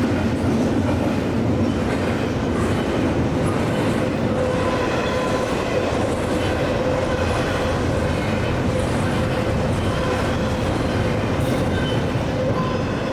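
Freight cars of a CSX intermodal train rolling past, a steady rumble of wheels on rail with clickety-clack, and a thin steady ringing tone from the wheels through the middle of the passage.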